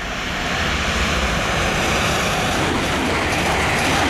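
A First Capital Connect Class 313 electric multiple unit running past close by: a steady rush of wheels on rail and moving air that swells about half a second in and stays loud as the carriages go by.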